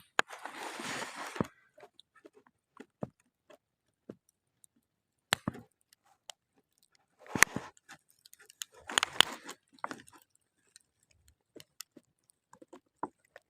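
Campfire crackling in sharp, scattered snaps and pops, broken three times by a second or so of crunchy handling noise up close.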